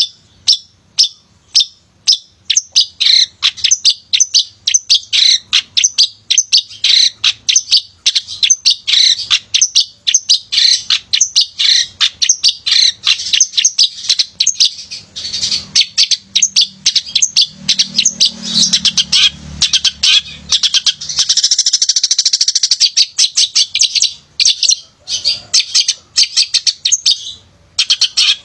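Male long-tailed shrike singing a fast, unbroken run of sharp chirps and calls. About three-quarters of the way through, the song breaks into a dense rapid trill.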